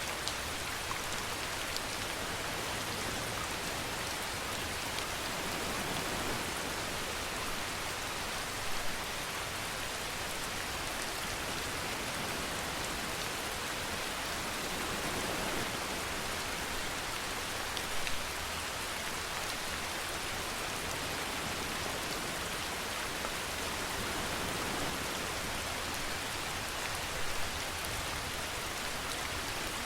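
Steady rainfall pattering on a surface, an even hiss with a brief louder spatter about every nine seconds.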